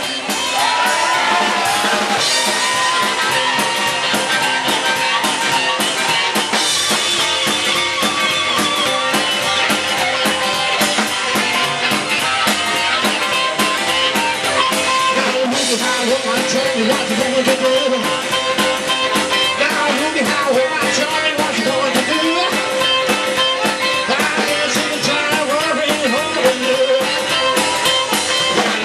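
Live rock and roll band playing an instrumental passage: drum kit and guitar driving along, with a lead instrument holding long, wavering notes over the beat.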